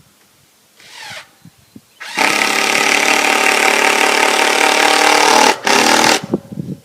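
A handheld power tool running steadily at full speed for about three and a half seconds, stopping briefly, then running again for a moment. A short whine dropping in pitch comes about a second in.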